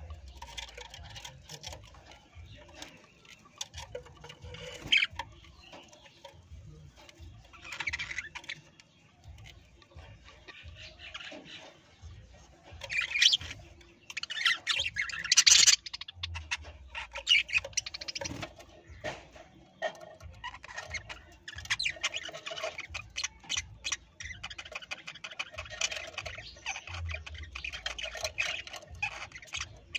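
Parrot squawking and chattering in harsh, scratchy calls, with loud squawks about 8, 13 and 15 seconds in and busier chatter through the last third.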